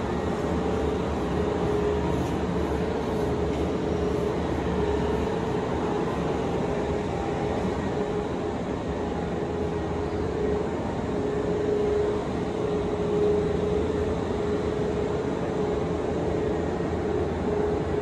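Steady hum of an electric commuter train standing at a platform, with a constant mid-pitched drone; a deeper rumble underneath drops away about five seconds in.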